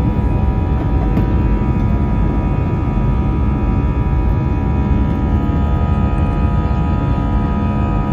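Airliner jet engines at takeoff climb thrust, heard from inside the passenger cabin just after liftoff: a steady low rumble under a constant whine of high tones.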